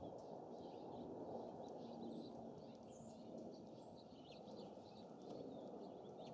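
Wind rushing steadily over the microphone, with many short, high chirps and call notes from small songbirds scattered throughout.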